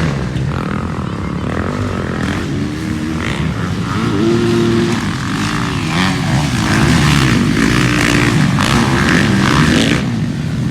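Motocross dirt bikes racing, their engines revving up and down with the throttle over a steady rumble.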